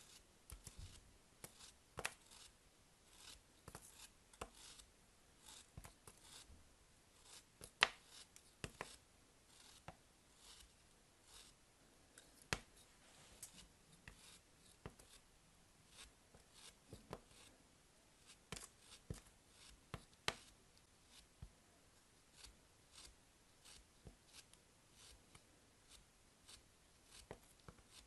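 Soap packaging being handled and opened at close range: scattered small crackles and sharp clicks, with a few louder snaps.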